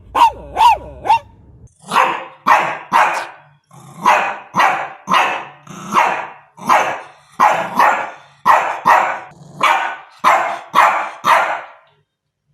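Dog barking: about a second of three short, high yaps, then a long run of harsher barks in quick groups of two to four.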